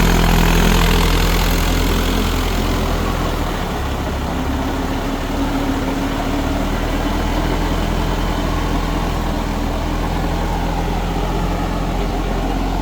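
Mahindra 4WD direct-injection diesel tractor engine running steadily, dropping slightly in loudness about two seconds in.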